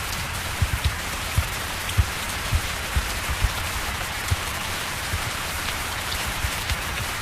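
Steady rain hiss with irregular low thuds of heavier drops landing close by.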